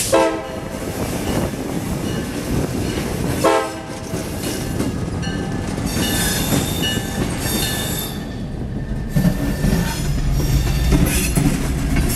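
CSX diesel locomotive passing slowly at a grade crossing, its engine running and wheels clicking over the rail joints. It gives two short horn blasts, one at the start and another about three and a half seconds in. The rumble of rolling wheels grows heavier near the end as the hopper cars follow.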